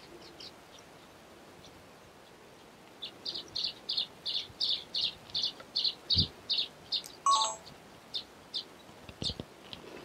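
Baya weaver chirping: after a quiet start, a quick run of short high chirps at about four a second begins about three seconds in, with one lower call a little past seven seconds and scattered chirps after.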